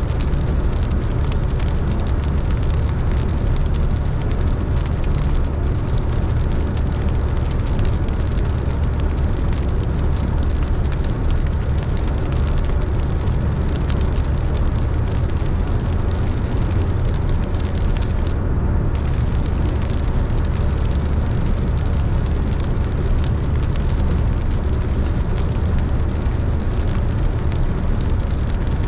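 A car driving in the rain: a steady low road rumble with the hiss of tyres on a wet road.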